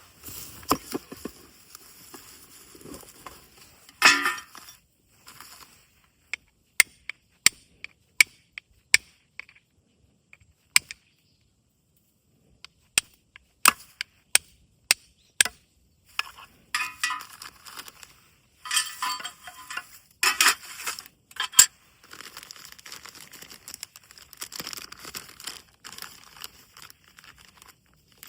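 Steel striker hit against flint: a series of sharp metallic clinks, spaced irregularly about half a second to a second apart, with handling rustle between the runs of strikes.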